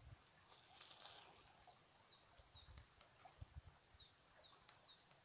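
Faint bird calls: short high chirps, each sliding down in pitch, in a run of about four around two seconds in and a longer run from about four seconds in. A faint rustle of plastic bags comes near the start.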